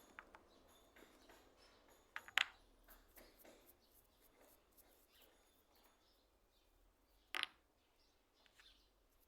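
Near silence broken by a few short, sharp clicks: a quick pair about two seconds in and a single one about seven seconds in.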